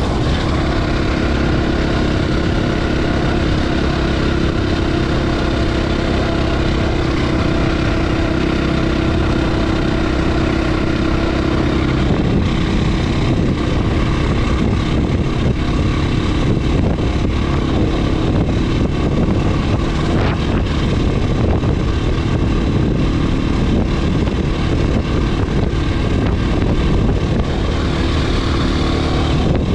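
Husqvarna FE 501 S single-cylinder four-stroke enduro motorcycle engine running while riding a trail. It holds a steady note for the first twelve seconds or so, then the sound turns rougher and less even.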